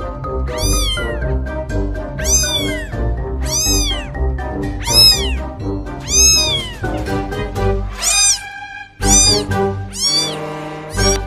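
Young kitten meowing repeatedly: high-pitched calls that rise and fall, about one every second, over background music.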